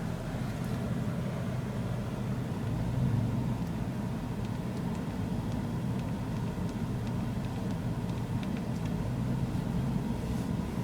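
Car driving, heard from inside the cabin: a steady low engine and road hum.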